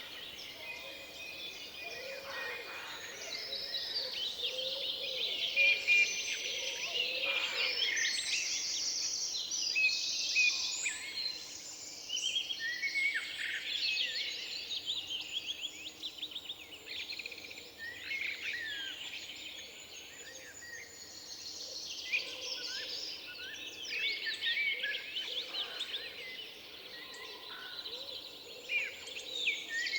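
Several songbirds singing and calling together, overlapping chirps and fast trills, over a faint steady background hush.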